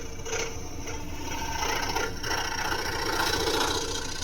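Scroll saw running and cutting through wood: a steady, rapid rasping of the reciprocating blade over the motor's hum, easing briefly twice.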